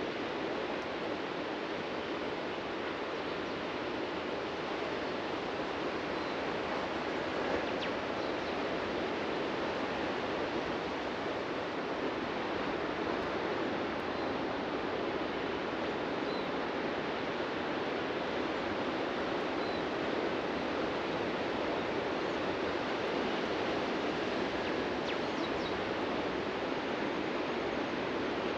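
Ocean surf washing steadily onto a beach, an even rush with no distinct breaks, with a few faint, brief high bird chirps scattered through it.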